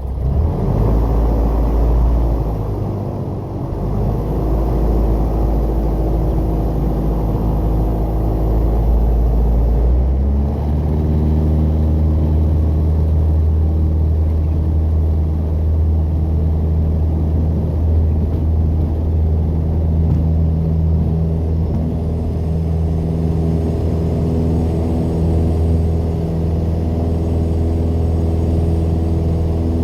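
Light aircraft's four-cylinder piston engine and propeller droning steadily; about ten seconds in the engine note steps up in pitch and holds there.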